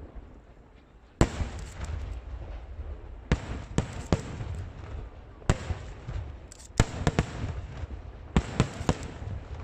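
Aerial fireworks bursting overhead. About ten sharp bangs go off at uneven intervals from about a second in, some in quick clusters of two or three, with a low rumble between them.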